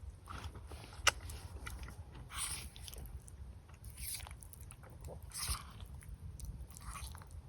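A person eating close to the microphone: irregular crunchy bites and chewing, every second or so, with one sharp click about a second in.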